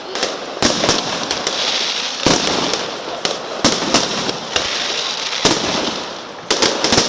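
Fireworks going off: sharp bangs at irregular intervals, often several within a second, over a continuous crackling hiss. There is a quick cluster of bangs near the end.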